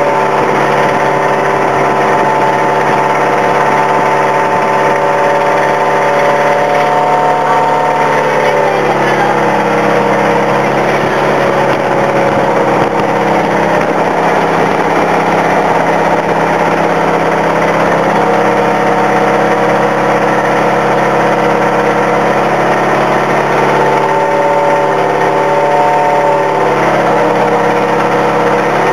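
An engine running steadily. It drops to a lower speed about nine seconds in and picks back up near the end.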